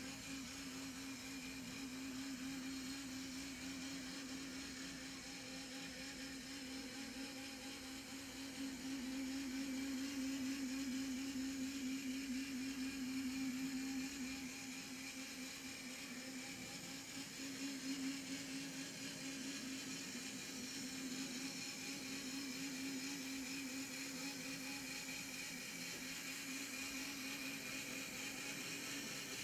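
HO-scale brass 3-truck Shay model locomotive running, its can motor and gear drive giving a steady whir with a slightly wavering pitch. It grows louder for several seconds about a third of the way in, then settles back.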